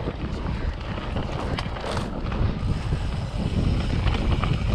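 Mountain bike rolling on a dirt trail: wind buffeting the camera microphone over a steady low tyre rumble, with scattered clicks and rattles from the bike.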